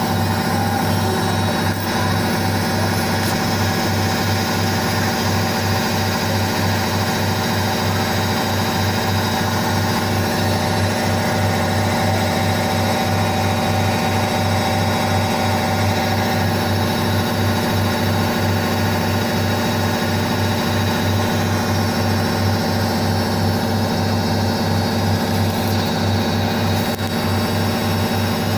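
Indesit IWSC5085 front-loading washing machine running steadily, its motor giving a constant hum and whine.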